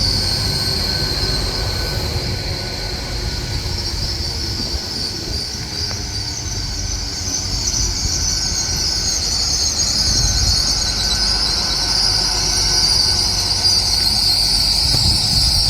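A train's steady high-pitched metallic squeal over a low rumble, growing louder about halfway through.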